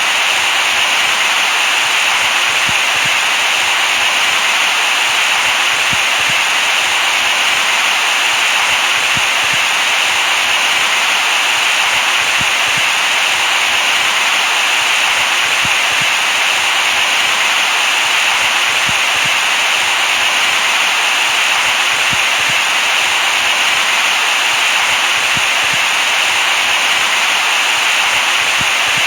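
Steady electronic white noise: an even, unbroken hiss, brightest in the upper-middle range, with little low end.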